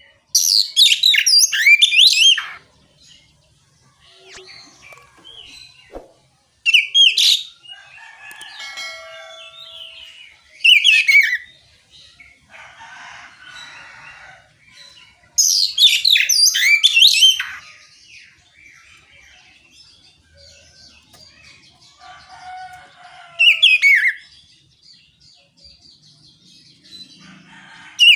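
Oriental magpie-robin (kacer) singing in loud, open bursts of rapid, sweeping whistled notes, each a second or two long and several seconds apart, with softer, quieter warbling between the bursts.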